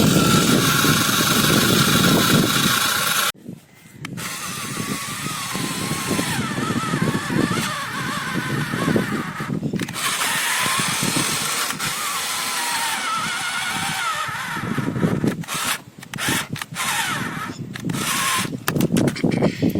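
Small motor and gearbox whining as the tractor is driven, the pitch wavering up and down as the load changes, broken off abruptly a few times.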